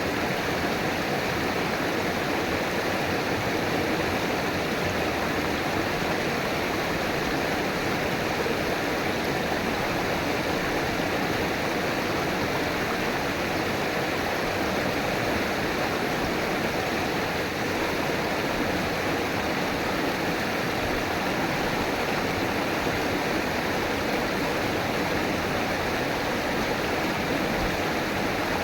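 River water flowing over rocks, a steady rushing with no breaks.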